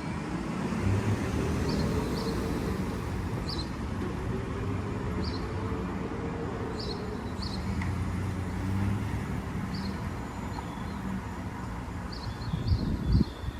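Semi truck's diesel engine running at low speed while the rig is slowly maneuvered, its pitch rising a little and then easing back. Short high chirps come and go over it.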